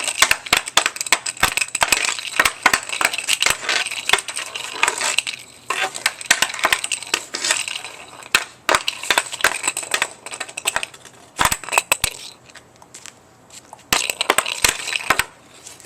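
Hockey stick blade rapidly clacking against a puck in stickhandling, many quick irregular knocks several a second, thinning out for a couple of seconds near the end.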